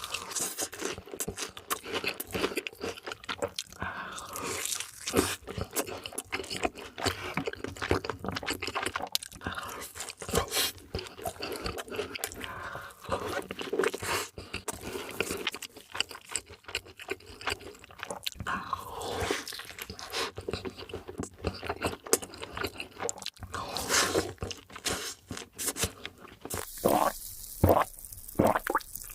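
Close-miked eating sounds: fast food being bitten and chewed with many sharp, irregular crunches, and a few louder crunches near the end.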